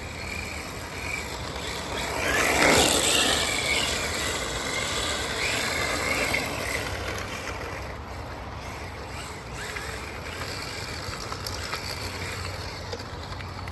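RC drift car running and sliding, its motor whining up and down, loudest about two to three seconds in.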